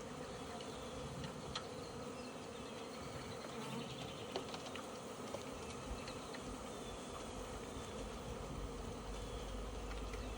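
Honeybee swarm buzzing steadily, the massed hum of many bees, with a few faint ticks over it.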